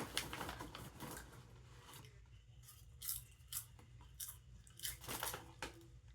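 Someone chewing microwave popcorn, a scatter of soft irregular crunches.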